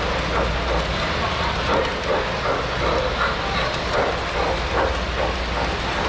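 Model train running on a show layout, a steady low rumble under the chatter of a crowd in a large hall.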